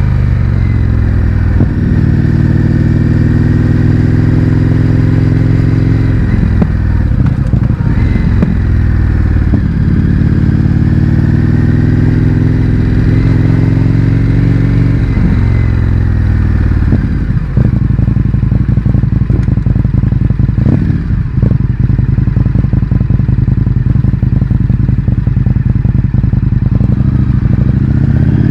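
Indian FTR 1200's V-twin running through an Akrapovič exhaust with the baffles removed, its revs slowly rising and falling while riding. About two thirds of the way in it drops to low revs with a distinct, pulsing beat and some crackle.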